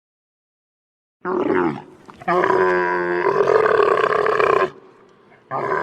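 An animal call, heard twice: a short call falling in pitch about a second in, then a longer held call of about two seconds.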